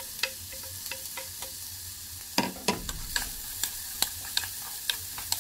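Diced bacon and freshly added onion frying in butter over low heat in a small saucepan, a steady sizzle, while a wooden spatula stirs, clicking and scraping against the pan many times; a louder knock comes about two and a half seconds in.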